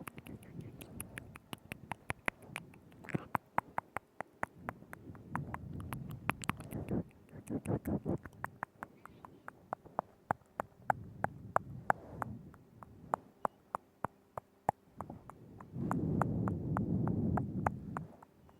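Close-up ASMR mouth sounds: rapid, irregular wet tongue and lip clicks, several a second, over soft breathy, wet mouth noise that swells now and then, loudest for about two seconds near the end.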